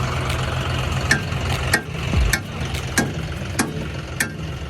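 Tractor engine idling, its low hum weakening about halfway through, with sharp clicks repeating roughly every half second to second over it.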